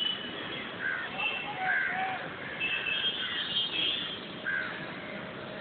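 Birds calling: a series of short calls, several overlapping, over a steady background hiss.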